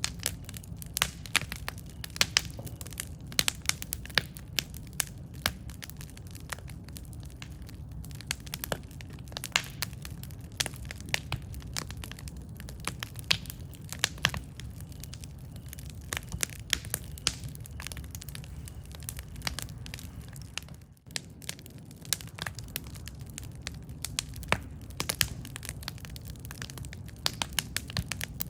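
Campfire wood crackling and popping, with dense irregular sharp snaps over a steady low rumble of the flames. The sound dips out for a moment about 21 seconds in.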